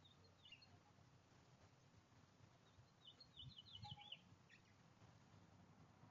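Faint small-bird chirps: a brief call near the start, then a quick run of about six high chirps around three to four seconds in. A soft low thump comes near four seconds.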